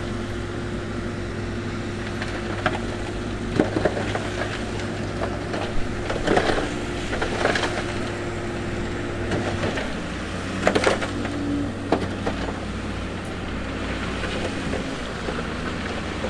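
Bulldozer's diesel engine running steadily under load, its pitch dropping about ten seconds in. Over it, stones clatter and knock several times as rock is pushed.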